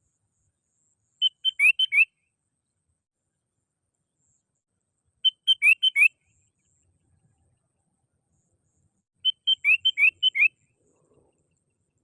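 Sooty-headed bulbul singing three short phrases about four seconds apart, each a quick run of clear whistled notes ending in upward-slurred notes. It is the bird's lure call, used to draw rival bulbuls in.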